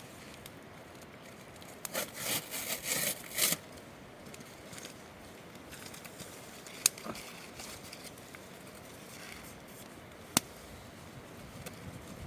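Wood being handled at a campfire: several rough scraping strokes about two to three and a half seconds in, then two sharp snaps several seconds apart.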